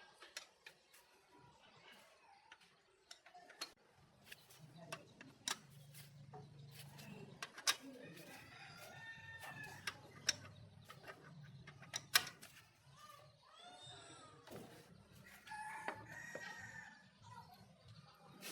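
A rooster crowing, faintly and more than once. Scattered sharp clicks and knocks of metal tools sound throughout, over a low steady hum that comes in about four seconds in.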